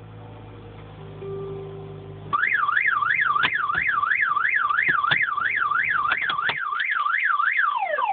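A 1999 Toyota Corolla's engine running on the remote starter cuts out about two seconds in, and the car alarm siren starts at once, wailing up and down about twice a second and changing to falling tones near the end. It is the faulty remote-start cycle: the engine starts, dies, and the alarm trips.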